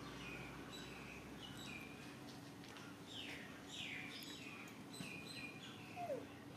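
Small birds chirping: many short chirps, each falling quickly in pitch, over a steady low hum. About six seconds in, a single lower, falling squeak stands out as the loudest sound.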